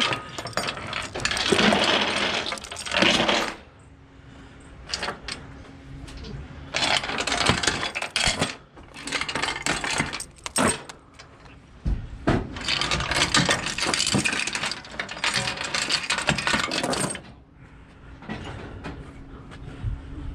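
Metal load-securing gear on a flatbed trailer being handled: three long bursts of rattling and clinking, with scattered single clinks between them.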